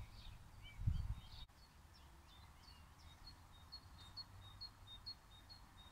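Faint outdoor birdsong: a songbird repeating short high chirps, scattered at first, then a steady series of about four a second from about halfway through. A single low thump about a second in.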